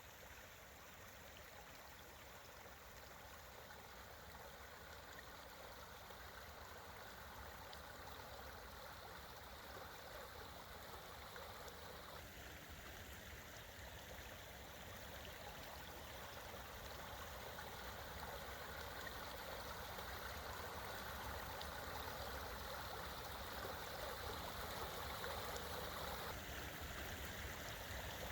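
A creek flowing: a steady rush of water that grows gradually louder.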